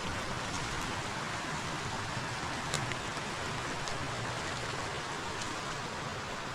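Forest river water rushing steadily, with a couple of faint sharp ticks about three and four seconds in.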